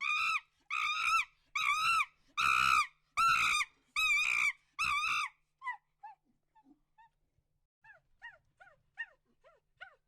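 Dog whining and yelping: seven loud, high-pitched calls in a row, each rising then falling in pitch, about one every 0.7 seconds, then a run of faint short yips about halfway through.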